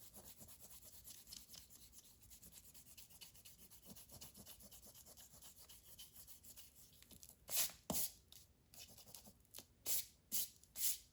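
Rubber eraser rubbing over paper in quick back-and-forth strokes, clearing pencil lines from a drawing. From about seven seconds in come several louder short swishes.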